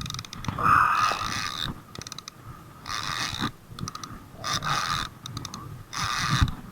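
Fishing reel winding in line in repeated spurts, about one every second and a half, each a clicking whir.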